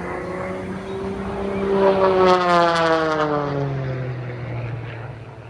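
Propeller aircraft flying past. Its engine drone swells to loudest about two seconds in, then drops in pitch and fades as it passes away.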